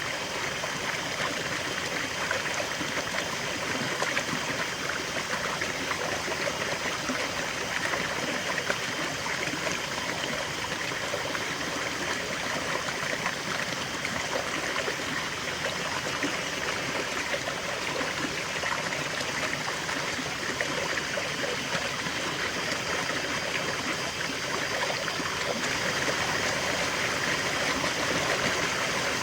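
River water flowing steadily, a continuous rushing and babbling with fine splashing texture.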